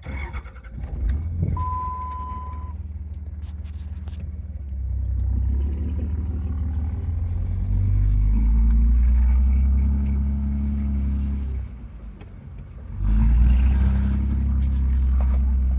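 Old Dodge pickup engine pulling under load with a pallet of concrete bags, its note swelling louder twice, easing off about twelve seconds in, then pulling hard again a second later. A short steady beep sounds about two seconds in.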